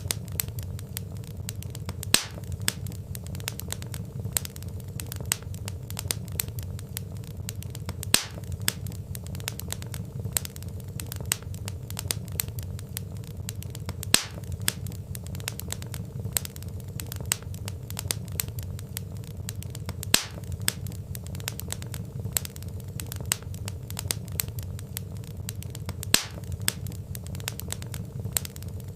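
Wood fire crackling: a dense run of small snaps, with a louder pop about every six seconds, over a steady low rumble.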